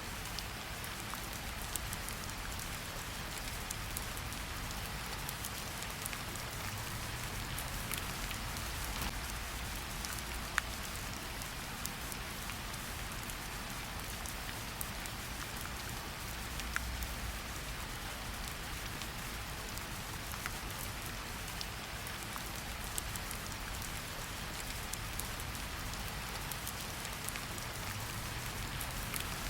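Steady rain falling in a forest, an even hiss with individual drops ticking now and then, a few sharper ones standing out, over a low rumble.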